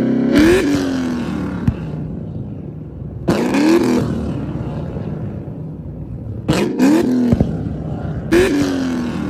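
Ford Mustang engine revved in four sharp blips a couple of seconds apart. Each one rises quickly in pitch and falls back toward idle, with sharp cracks from the exhaust as flames shoot out of the tailpipe.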